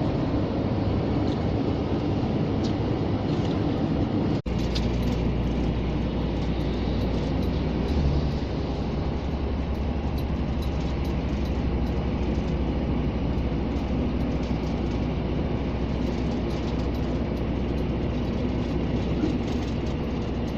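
Scania G460 lorry's straight-six diesel engine and road noise heard from inside the cab while driving, a steady low drone. It drops out for an instant about four seconds in, after which the low drone is heavier.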